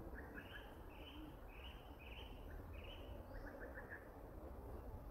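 A bird calling faintly: a series of five short, evenly spaced notes, about one every half second, with quick chattering trills between them.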